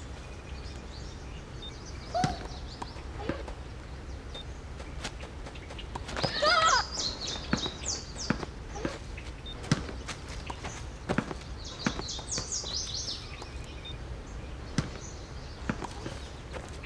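Birds chirping in two quick runs of high chirps, over scattered sharp clicks and knocks and a steady low rumble.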